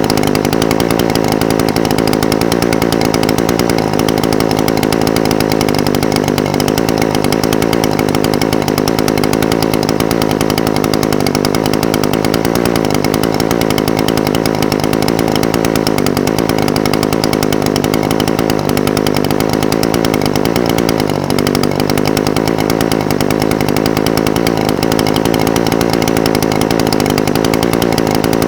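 Echo SRM-420TES brush cutter's two-stroke engine idling steadily, its pitch wavering slightly from time to time.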